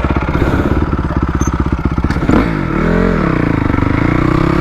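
2004 Honda CRF250R four-stroke single-cylinder dirt bike engine running at low revs with an even chug. About halfway through the revs drop and climb again, then hold steadier and higher.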